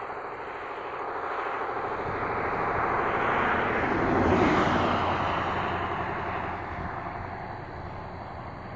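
An aircraft passing overhead: an engine drone that swells slowly to its loudest about four and a half seconds in, then fades away.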